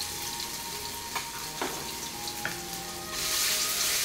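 Garlic and chili paste sizzling in hot oil in a nonstick wok, with a few small pops. About three seconds in the sizzle gets louder as a spatula starts stirring it.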